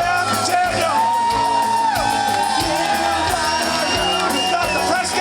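Live rock band playing loud, with drums hitting steadily under dense guitar. A long held note bends down about two seconds in.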